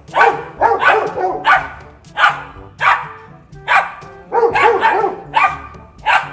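A dog barking repeatedly, about a dozen short, sharp barks at an uneven pace, over background music.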